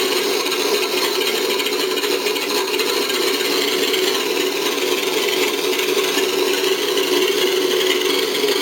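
Simulated twin piston engines from a sound module, playing steadily through two small speakers in an RC model P-38.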